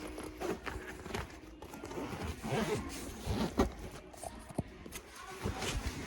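Irregular knocks, taps and clatter at an uneven pace.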